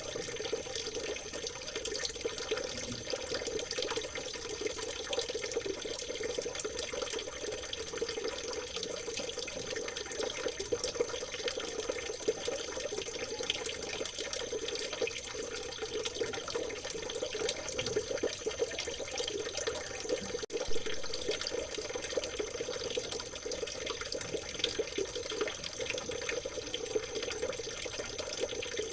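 Water of a small stream trickling and babbling steadily, with one brief click about twenty seconds in.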